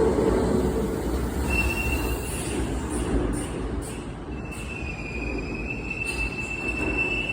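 Kintetsu limited express train pulling slowly into the platform over a low rumble, its wheels squealing on the rails in a thin, steady high-pitched tone: briefly about a second and a half in, then again from about four and a half seconds on.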